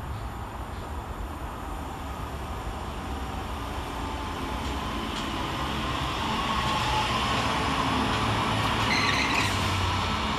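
Northern Class 331 electric multiple unit running into the station, its rumble growing steadily louder as it approaches and draws alongside. A brief high squeal comes near the end.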